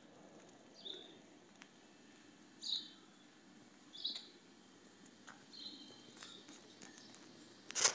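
Faint bird chirps: short, high calls every second or two over a low steady outdoor background. A sharp click comes near the end.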